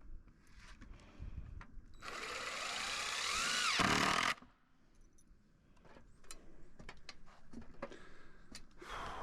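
A power drill runs for about two seconds, its whine rising in pitch, then stops abruptly. Light scattered clicks and knocks before and after.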